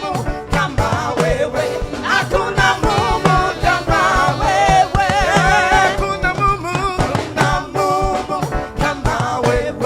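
Live gospel music: a choir singing over a band with a steady, upbeat drum beat.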